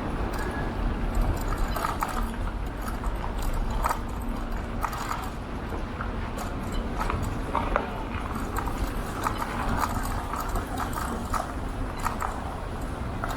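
Ride on an electric scooter: steady wind rumble on the microphone and road noise, with irregular clicks and rattles as it rolls over the road surface.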